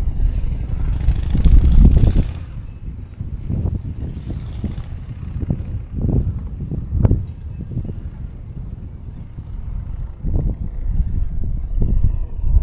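Wind buffeting the microphone in irregular gusts, a low rumble that swells about a second in and again near the end. Under it runs a steady high-pitched insect trill.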